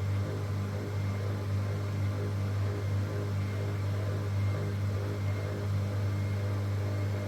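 Bauknecht WA PURE ST 14 FLD washing machine running its steam self-clean cycle: a steady low machine hum with faint higher tones over it.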